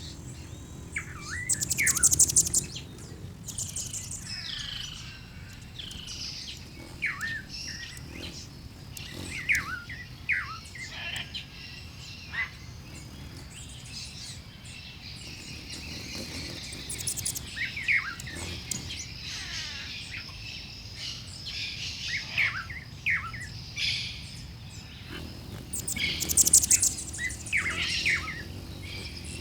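Bird-song ambience: several wild birds chirping and calling in short sweeping notes, with a louder rapid, buzzy trill about two seconds in and again near the end.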